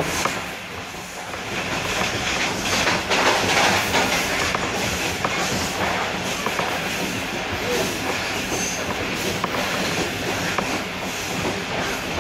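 Pakistan Railways passenger train running at speed, heard from inside a coach: a steady rush of wheels on rail and passing air, with a few sharp clicks from the rail joints and a louder stretch about three seconds in.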